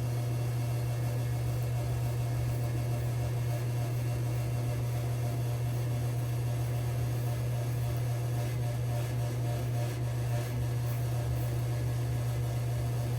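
A steady low mechanical hum runs unchanged throughout, with a few faint scrapes of a safety razor through stubble near the end.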